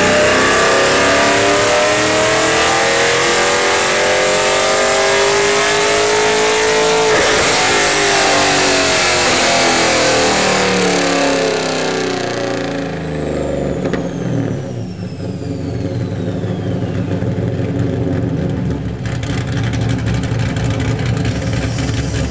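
Tuned LS1 V8 of a 2002 Camaro Z28, with an LG G5X4 camshaft and 1 7/8 in headers, making a wide-open-throttle pull on a chassis dyno: the engine note climbs steadily for about seven seconds. Then the revs fall away for several seconds while a high whine glides down as the rollers slow. The engine settles to a lower, steadier running sound.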